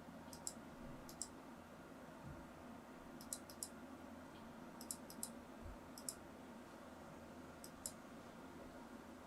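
Faint, sharp clicks in six quick groups, mostly pairs with one group of four and one of three, over a low steady hum.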